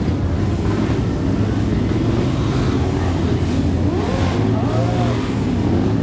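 Motorcycle engine running steadily with a constant low hum, with voices of a crowd chattering over it.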